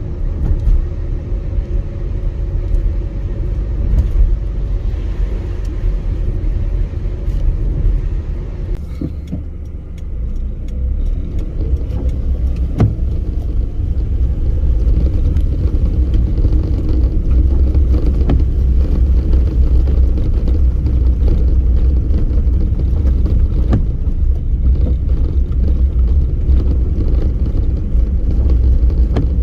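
A car driving on a snowy road, heard from inside: a steady low rumble of engine and tyres. About ten seconds in it shifts, then runs louder and steadier, with a few faint ticks.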